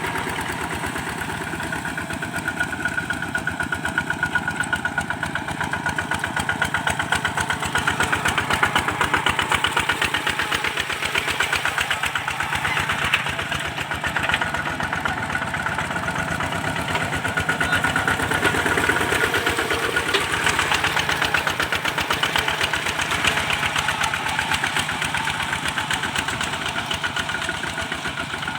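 Single-cylinder diesel engine of a Kubota RT-series walking tractor running steadily while plowing, with a fast, even firing beat that swells and eases slightly in loudness.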